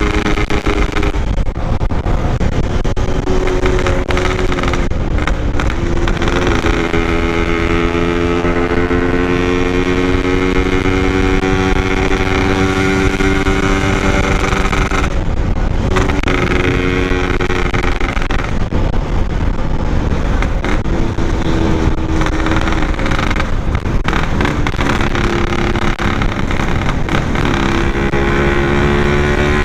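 Yamaha RX-King 135cc two-stroke single-cylinder engine running hard under a rider at speed. Its pitch climbs steadily, then drops off and picks up again several times as the rider works the throttle.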